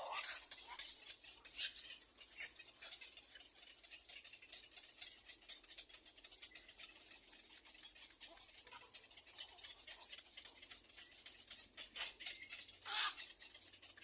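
Faint scratchy ticking and rustling from little egret chicks, with a short harsh squawk near the end.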